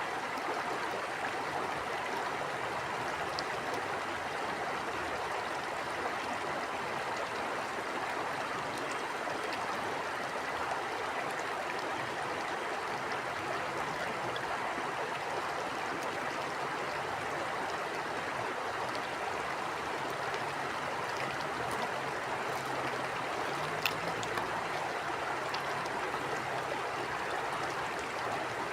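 Steady rushing of a flowing stream, even and continuous, with a few faint ticks and one brief sharp click about 24 seconds in.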